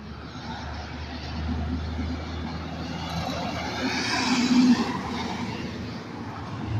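A road vehicle passing by, growing louder to a peak about four and a half seconds in, then fading.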